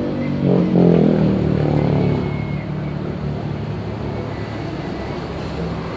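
An engine running. It revs up briefly about a second in, then settles back to a steady run.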